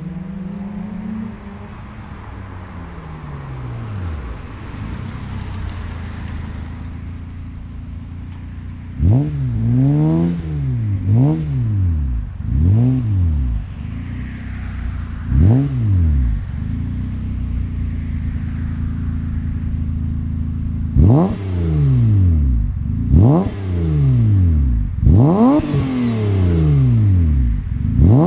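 Ford Probe's 2.5-litre 24-valve V6 exhaling through a Magnaflow exhaust, idling and revved in short, sharp blips. One rev dies away just after the start, a run of quick blips comes about a third of the way in, and after a spell of idle another run of blips follows near the end.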